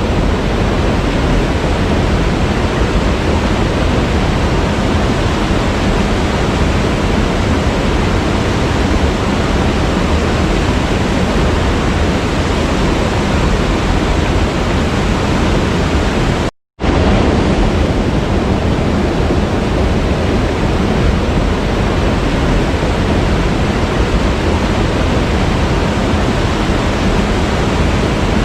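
Waterfall: a steady, loud rush of falling water. It cuts out to silence for a fraction of a second a little past halfway, then resumes unchanged.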